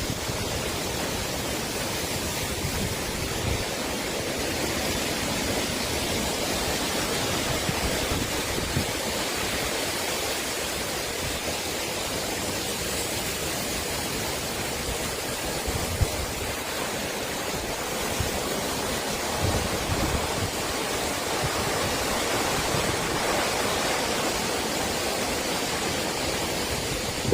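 Strong thunderstorm wind blowing hard: a steady rushing hiss, with irregular low rumbles where gusts buffet the microphone and a brief louder gust about halfway through.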